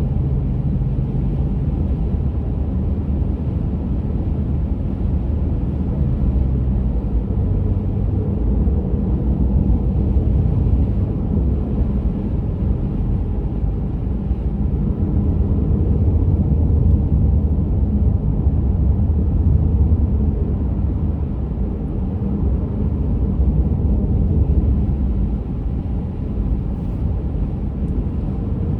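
A car driving at speed: a steady low rumble of tyres and engine, heard from inside the cabin.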